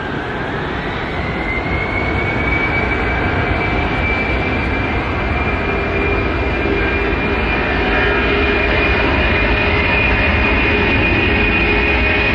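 Engines of a large transport aircraft running: a whine that rises in pitch over the first two seconds and then holds steady over the engine noise, the whole growing louder toward the end.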